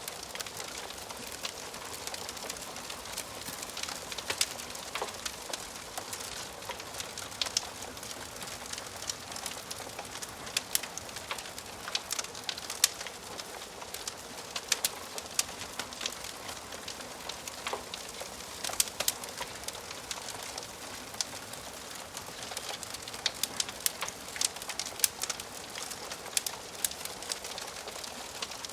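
Wood fire burning in a fireplace, with irregular sharp crackles and pops over a steady hiss of flames.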